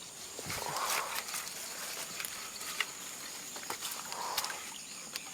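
Water sloshing in three soft swishes, a few seconds apart, as a hand scoop net is worked through shallow water, with scattered small clicks and knocks. A steady high insect drone runs underneath.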